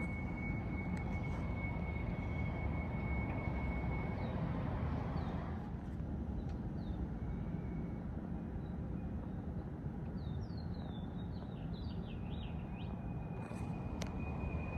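An unexplained steady low rumble, heard outdoors, with a thin high whine in the first few seconds that returns near the end. Birds chirp briefly in the middle.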